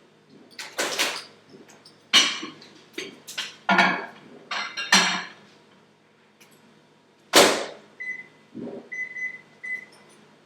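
A lidded bowl knocking and clattering as it is handled, then a microwave oven door shutting with a loud knock, followed by four or five short beeps from its keypad as it is set to cook.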